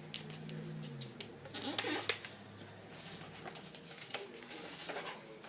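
A sheet of paper being handled and folded by hand: scattered crinkles, rustles and light taps, busiest about two seconds in, over a faint low hum in the first half.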